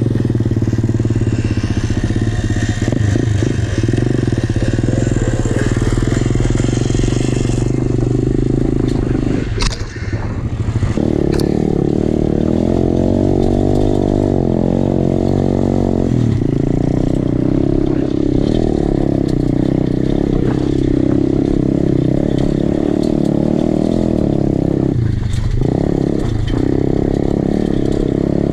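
Pit bike engine running hard while being ridden, its revs rising and falling. The engine note drops away briefly about ten seconds in and again near the end.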